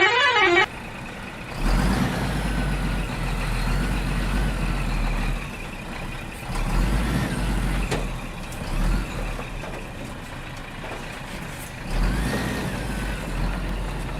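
Heavy-vehicle engine sound: a steady low rumble that swells several times, with faint steady high tones above it.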